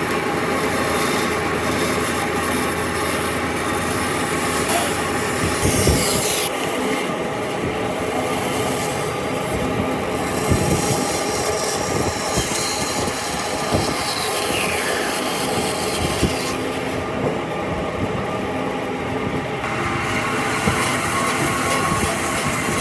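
Steady mechanical drone of a woodworking power tool running, with a few brief falling whines.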